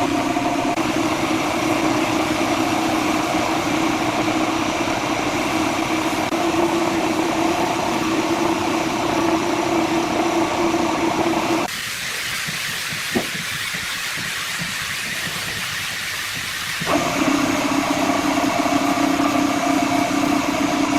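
A machine's motor running steadily, a hum over a hiss. For about five seconds in the middle the hum drops away, leaving only the hiss and a single click, then it comes back.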